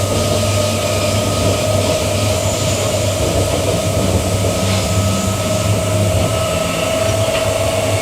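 Running noise of a Queensland Rail EMU electric train in motion: a steady low rumble with a constant whine.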